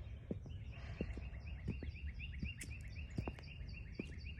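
A bird singing a long trill of short, quickly repeated chirps, about four or five a second, starting about half a second in, over a steady low outdoor rumble.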